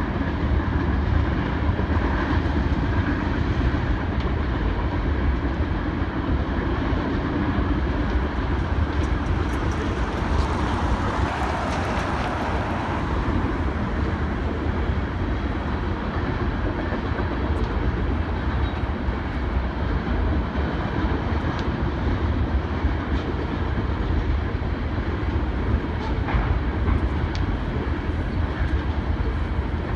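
BNSF coal train rolling past: a steady rumble of wheels on rail, with a few faint clicks from the wheels over rail joints.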